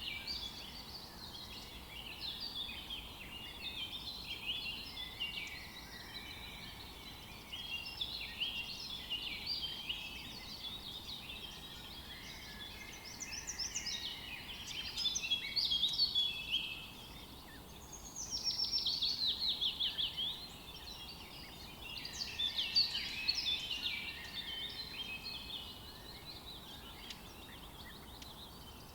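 Several birds singing and calling at once, a busy chorus of chirps and trills, with a fast run of repeated falling notes about two-thirds of the way through.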